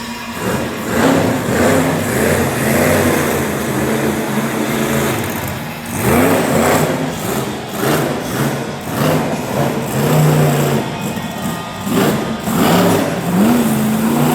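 Monster truck engine revving in repeated bursts, its pitch swooping up and falling back several times.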